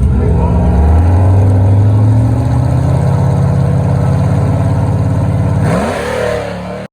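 A drag-racing car's engine at full throttle down the strip, its pitch climbing steadily for about five seconds, then dropping sharply as the throttle is lifted near the end.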